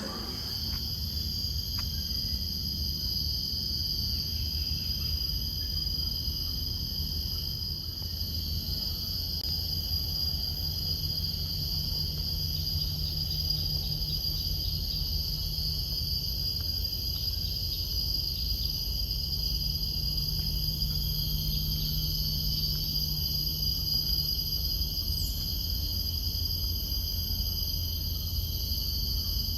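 Steady chorus of tropical forest insects: continuous high-pitched trilling in several unbroken layers, over a low rumble.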